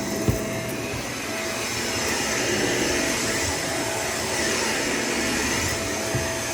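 Vacuum cleaner running steadily: a continuous rush of air with one steady tone through it, and a single small knock just after the start.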